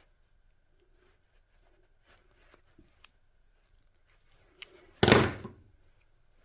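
Faint handling noises, small clicks and rustles of tools and parts on a workbench. About five seconds in comes one loud, sudden clunk that dies away within about half a second.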